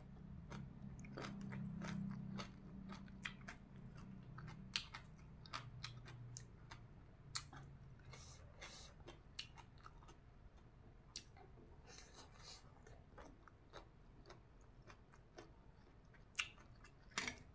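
Close-up chewing and biting of raw greens and spicy papaya salad, with soft crunches and wet mouth clicks at irregular moments.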